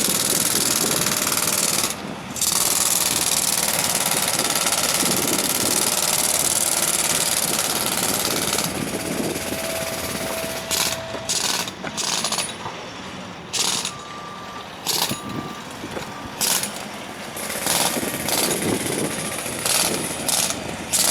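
Jackhammer breaking up concrete, running steadily for about nine seconds with one short pause about two seconds in, then firing in short bursts with pauses between them.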